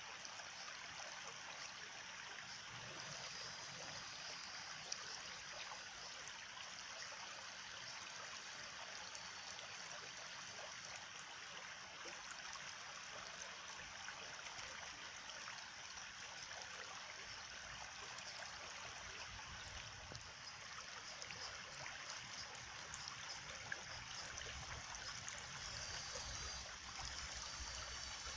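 Running stream water, a steady even trickling rush.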